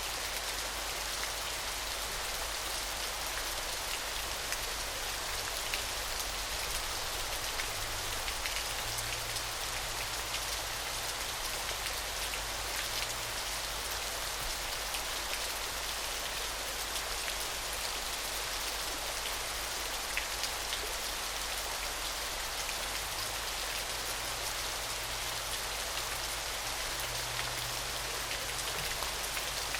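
Small waterfall: a steady hiss of falling, splashing water, with a fine patter of droplet ticks running through it.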